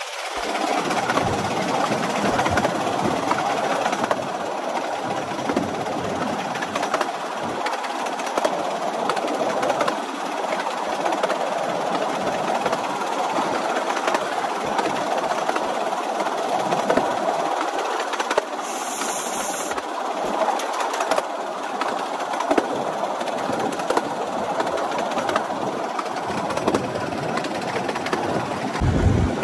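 A 15-inch-gauge miniature railway train running steadily along the line, heard from on board: an even rumble of wheels on rail with faint clicks over the track.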